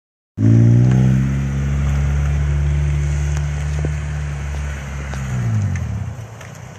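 Honda Del Sol's four-cylinder engine revved hard and held high while the car spins out, then the revs drop and the sound falls away about five and a half seconds in.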